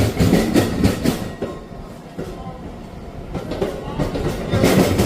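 Amtrak passenger train rolling along the track as it departs, its wheels clacking over rail joints in uneven knocks, louder near the start and again near the end.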